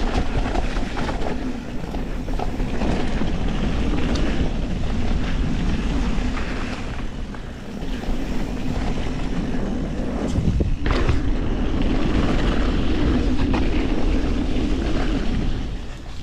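Wind rushing over an action camera's microphone as a mountain bike rolls fast down a dirt trail, with tyre roar and frequent knocks and rattles of the bike over roots and bumps, one sharp clack about eleven seconds in.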